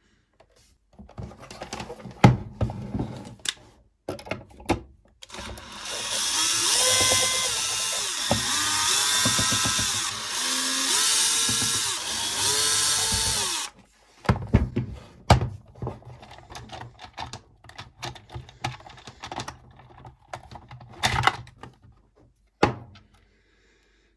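A power drill-driver runs for about eight seconds, its whine rising and falling several times as the trigger is worked, taking out the case screws of a charger. Scattered clicks and knocks of handling come before and after it.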